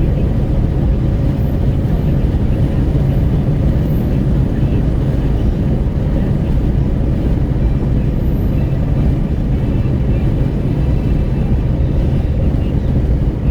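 Wind rushing at the open window of a moving Renault Kwid, mixed with tyre and road noise, a loud steady low rumble.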